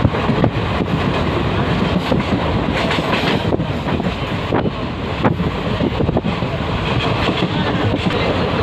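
Passenger train running along the track: a steady rumble with the wheels clicking over rail joints every so often.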